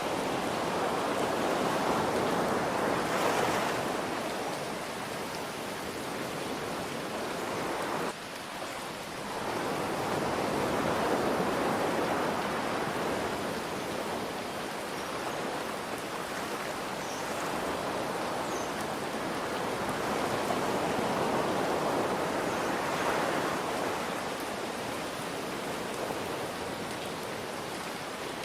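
Ocean waves washing in over a steady hiss of soft rain, the surf swelling and easing about every nine to ten seconds. The sound drops sharply for a moment about eight seconds in.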